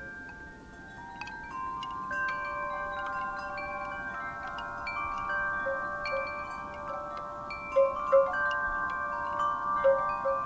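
Wind chimes stirred by a breeze: metal tubes struck at random, their long ringing tones overlapping, growing busier and louder about a second in, with a few sharper knocks of the striker later on.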